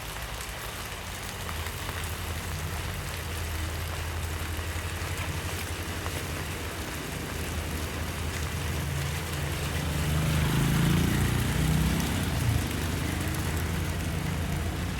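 Steady rain falling, with a motor vehicle's engine running close by; it comes in about a second and a half in and is loudest about two-thirds of the way through.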